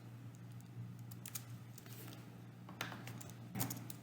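Computer keyboard typing: a few scattered keystrokes, with a steady low hum underneath.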